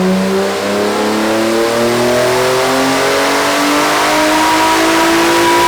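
BMW E46 M3's S54 inline-six pulling on a dyno under full throttle, its exhaust note climbing steadily in pitch as the revs rise. It breathes through an aftermarket eBay muffler with the resonator deleted.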